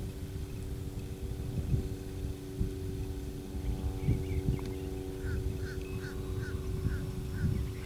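A bird calls about six times in a quick, even series in the second half, over outdoor noise and a steady low hum.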